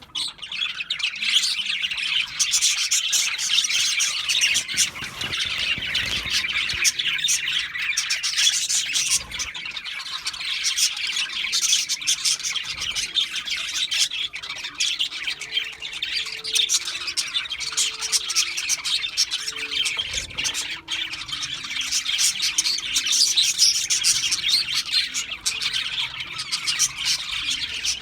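Budgerigars chattering and chirping in a dense, unbroken chorus of high-pitched calls.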